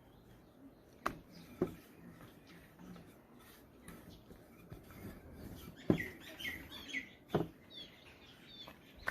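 Small birds chirping in short, repeated calls, mostly in the second half, with a few sharp knocks or clicks between them, the loudest a little past the middle.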